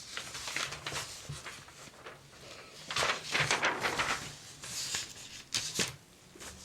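Catalog pages rustling as they are handled and turned, with a couple of sharp paper snaps near the end.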